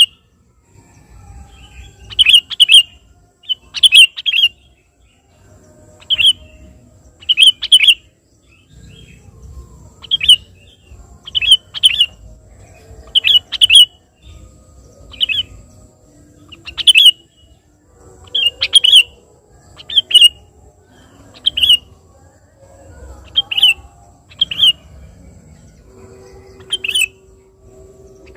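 Sooty-headed bulbul (kutilang) calling over and over in short, loud, bubbly phrases, one or two every second or two. It is a male's vigorous calling, used as a lure to draw a reply from other bulbuls.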